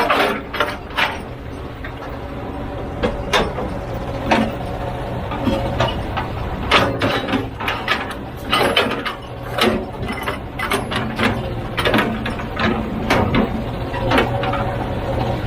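Heavy machinery at work: a large engine running steadily under irregular metallic clanks and knocks, several at a time in places.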